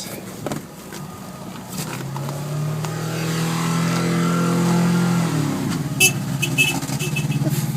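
A motor vehicle's engine swelling in level and pitch, loudest about 4 to 5 seconds in, then dropping in pitch and settling to a steady note, with a few sharp clicks near the end.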